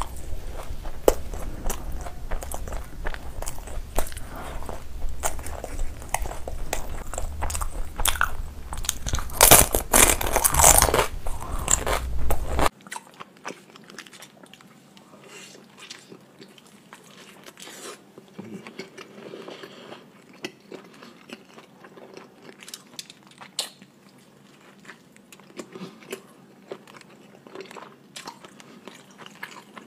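Close-miked eating sounds: biting and chewing, loud and dense over a low hum, loudest about ten seconds in. A little under halfway through it cuts to a quieter recording of softer, sparser chewing and mouth clicks.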